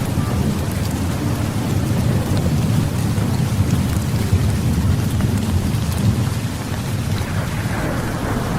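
Heavy rain falling steadily over a continuous low rumble of thunder.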